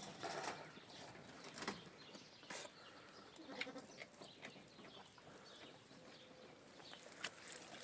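Sheep bleating faintly a couple of times, with calls about half a second in and again about three and a half seconds in.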